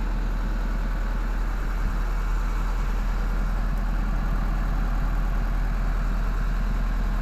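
Engine idling steadily: a constant low drone with an even hum and no change in speed.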